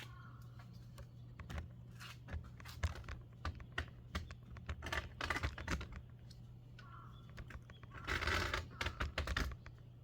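A run of light clicks and knocks from hand work, with two louder rustling, scraping stretches, the longer one near the end, over a steady low hum.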